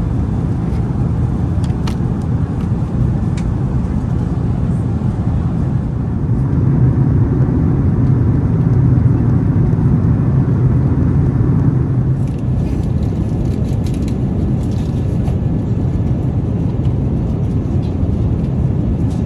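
Steady low rumble of airflow and engine noise inside the cabin of an Airbus A380 in flight, swelling slightly a few seconds in, with a few faint light clicks about two-thirds of the way through.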